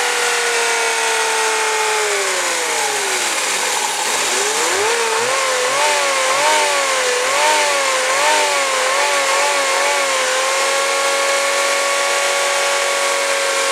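Suzuki K6A three-cylinder engine running: its speed sags about two seconds in, then it is revved in a string of quick throttle blips for about five seconds before settling to a steady speed.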